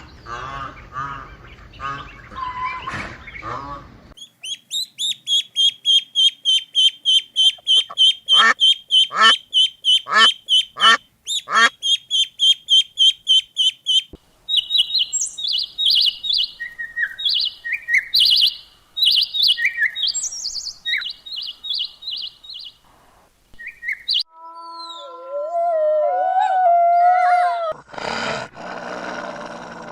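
A run of different bird calls: a fast, high chirping trill for about ten seconds, then varied short whistled calls, then lower, sliding calls. A rougher, noisier animal sound comes in near the end.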